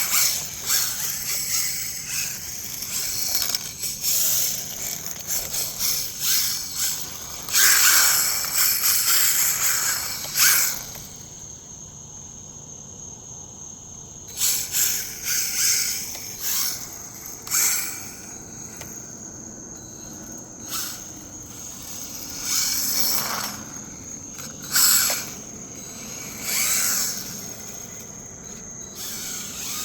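Battery-powered RC rally car driving in bursts, its electric motor whining up and down in pitch as the wheels spin and scrabble on loose dirt, with short pauses between runs. A steady high tone runs underneath.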